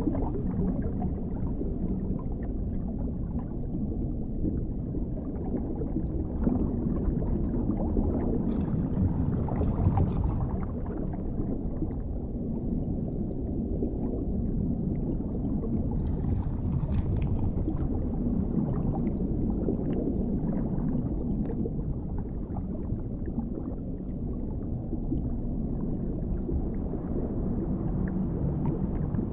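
Underwater ambience: a steady, muffled low rumble with a faint low hum and scattered faint ticks and crackles.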